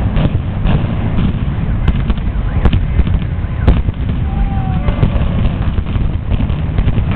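Building implosion: a series of sharp cracks from explosive demolition charges going off over a continuous heavy low rumble.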